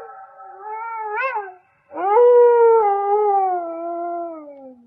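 Wolf howling. First comes a softer howl with a brief rise in pitch, then about two seconds in a long, loud howl that slowly slides down in pitch and fades away.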